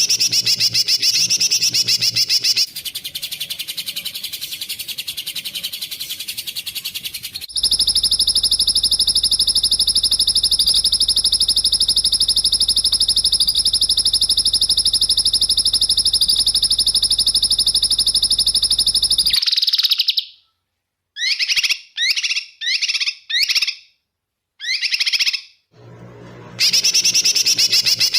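Songbird calls for bird training: rapid, tightly packed high-pitched trills and buzzy bursts, edited together so that each passage cuts off abruptly. A fast trill gives way to a weaker pulsing one, then a long steady buzzing trill of about twelve seconds, then about six short separate phrases, and the fast trill returns near the end.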